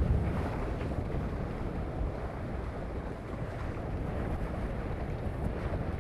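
Steady wind rumbling on the microphone, with water washing along the hulls of a small sailing catamaran under way.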